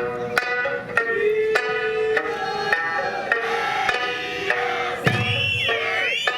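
Traditional Okinawan Eisa music: drum strikes in a steady beat, nearly two a second, over plucked sanshin and a sung melody. A high voice comes in near the end.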